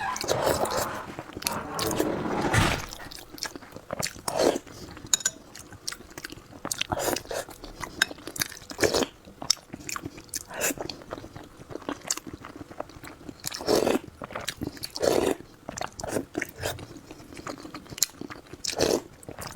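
Close-miked eating: a person biting and chewing food, with irregular crunchy and wet mouth sounds.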